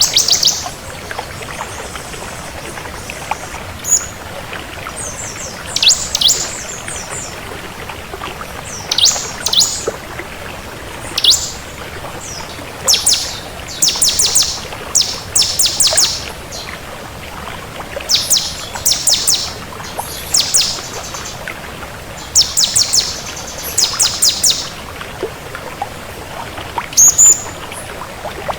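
Ciblek kristal (a prinia) singing: short bursts of rapid, high, chattering notes repeated every second or two, over a steady hiss.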